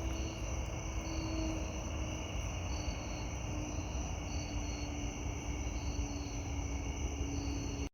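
Crickets and other insects chirping and trilling steadily, with short chirps repeating high up, over a low steady rumble and a faint hum.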